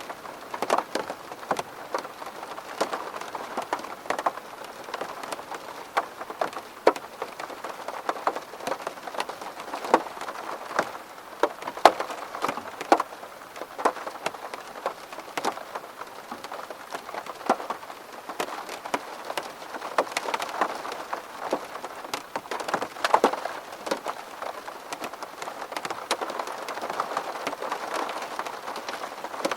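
Rain falling on a window pane: a steady patter with many irregular sharp drop taps, some louder than others.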